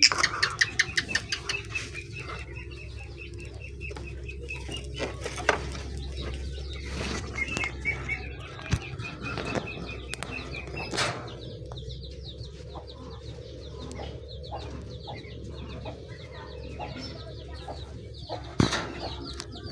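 Lovebird chicks making rapid, pulsed begging chirps: one fast run at the start and another around the middle, with scattered clicks and rustles between them.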